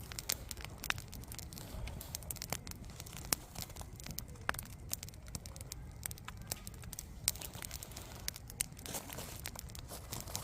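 Firewood burning in a campfire, crackling with irregular sharp pops and snaps, which grow denser near the end.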